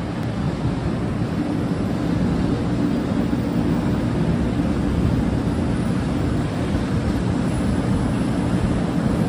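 500 series Shinkansen bullet train running past along the platform: a steady rush of wheel and air noise with a low hum underneath, growing a little louder in the first seconds as the cars go by.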